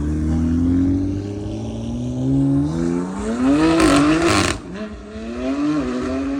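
Car engine revving hard as it accelerates, its pitch climbing and dropping back several times as it runs through the gears. A short burst of loud hissing noise comes about four seconds in.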